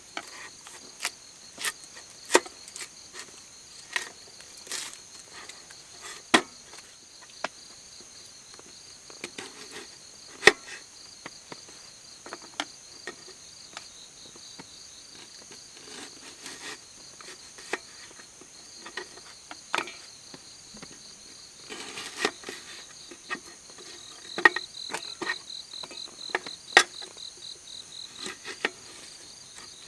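Wood campfire crackling, with sharp irregular pops and snaps, over the steady high chirping of night insects such as crickets.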